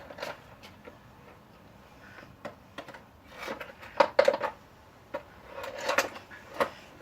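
Knocks, clicks and plastic clatter from a broken-up vacuum cleaner being wrenched at to free its power cable, coming in short clusters, busiest about halfway through and again near the end.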